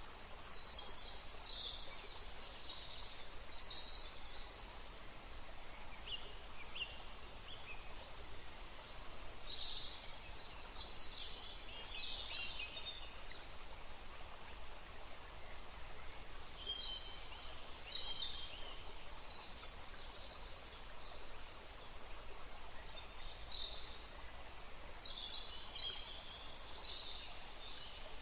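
Woodland ambience: small birds calling in four bouts of quick, high chirps, over a steady background hiss.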